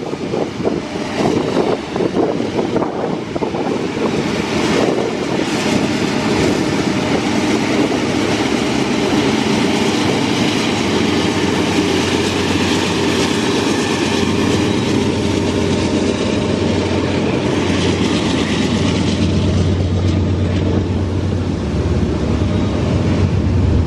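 Canadian Pacific freight train passing at close range: its diesel locomotives draw near and go by in the first half, then intermodal container cars roll past on the rails with steady wheel noise.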